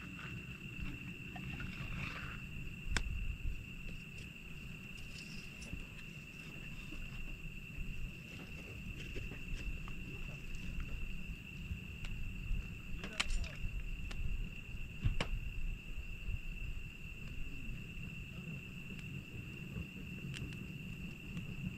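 Night insects chirring steadily at one high pitch over a low rumbling background, with a few sharp pops from a crackling campfire.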